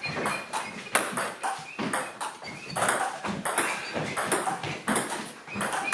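Table tennis rally: the celluloid ball clicks off the bats and bounces on the table, several sharp knocks a second in an irregular rhythm.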